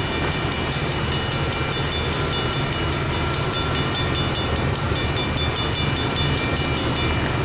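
Freight train led by diesel locomotives, running with a steady low rumble. A rapid, evenly repeating high-pitched ringing sits over it and stops near the end.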